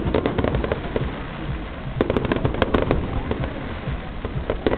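Fireworks crackling in rapid clusters of sharp pops over a low rumble. There is a dense flurry at the start, another about two seconds in, and more near the end.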